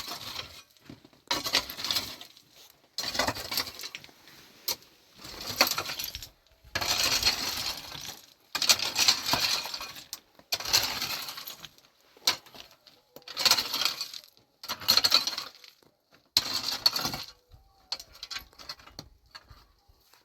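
A shovel scraping and scooping into stony soil and gravel, again and again, about one stroke every one and a half to two seconds, each a gritty rattle of stones lasting about a second.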